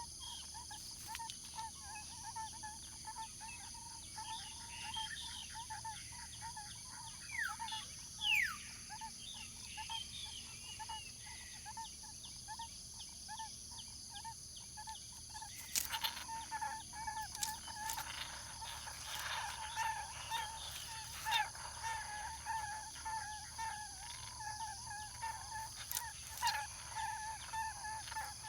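A barbet calling a long run of short, low hooting notes, about three a second, over a steady high drone. Two quick falling whistles come about a quarter of the way in, and a few sharp clicks come in the second half.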